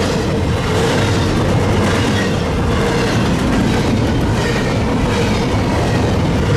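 Freight train cars rolling past close by: a loud, steady rumble of wheels on rail with clickety-clack.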